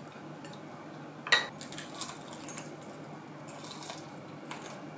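Chopsticks and tableware clinking while eating: one sharp clack about a second in, then a few lighter taps and a soft scrape of chopsticks against a dish.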